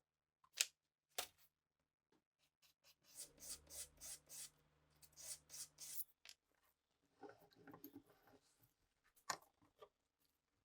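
A series of sharp, small metallic clicks from handling the parts of a Sauer pistol being restored. The loudest come about half a second in, just after a second, and a little after nine seconds, with a quicker run of clicks in between.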